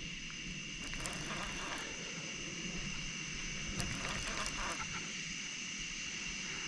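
Night insects droning steadily at two high pitches, with a few faint clicks about a second in and again past the middle.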